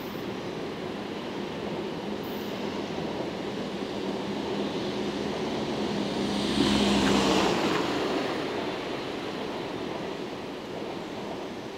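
Container freight train rolling away down the track: a steady distant rumble of wagon wheels on rail that slowly fades. About six seconds in, a louder rushing sound with a low hum swells for about two seconds and dies away.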